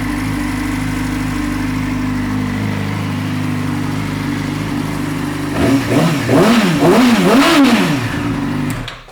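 2012 Yamaha YZF-R6 inline-four idling steadily through an aftermarket M4 shorty exhaust, then revved in three or four quick blips a little past halfway, and shut off near the end.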